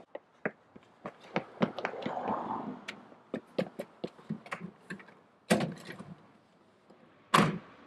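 Irregular clicks and knocks, then the door of a Citroën Dyane opened with a clatter about five and a half seconds in and pulled shut with a thud near the end.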